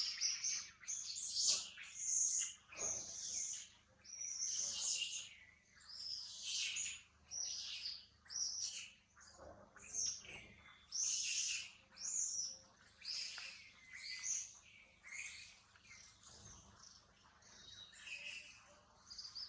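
Birds chirping and calling, a steady run of short high-pitched notes about once or twice a second.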